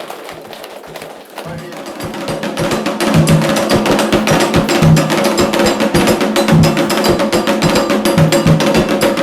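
Candomblé ritual percussion: drums and a struck bell or block playing a fast, steady rhythm that starts about a second and a half in and grows louder a second or so later.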